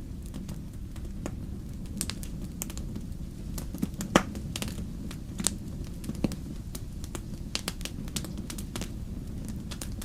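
Fire in a fireplace crackling: a steady low rumble with frequent sharp pops and snaps at irregular intervals, the loudest pop about four seconds in.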